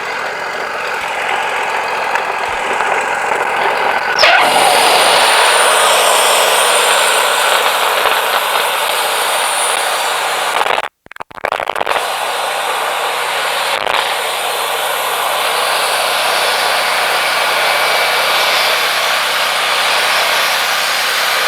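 Wood-Mizer LT40 band sawmill running, its band blade sawing through a pine log over the engine's steady drone. The cut gets louder about four seconds in, and the sound drops out briefly about eleven seconds in.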